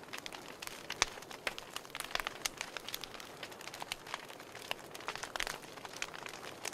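Wood fire crackling, with irregular sharp pops over a soft hiss; the loudest pop comes about a second in.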